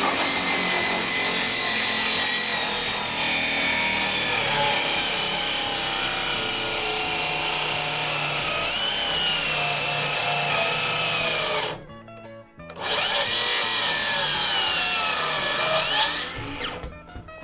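Power tool working into wooden boards, its motor whine dipping in pitch as it loads up. It stops briefly about twelve seconds in, then runs again before fading out.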